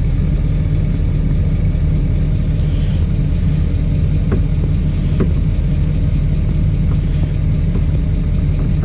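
Diesel truck engine idling steadily with a low rumble, with a few faint clicks over it.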